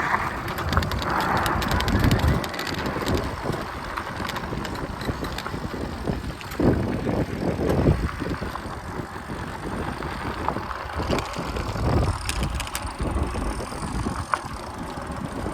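Wind buffeting the microphone during a bike ride, a gusty low rumble that swells and fades several times, with scattered rattles and clicks.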